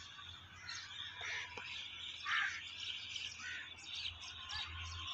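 Faint, scattered chirps and twitters of small birds in open farmland, several short calls every second or so, over a low steady hum.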